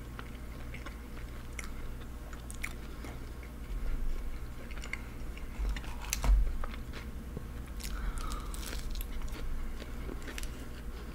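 Close-miked mouth sounds of someone chewing and biting fast food, with scattered crunchy clicks and wet smacks; the loudest click comes about six seconds in.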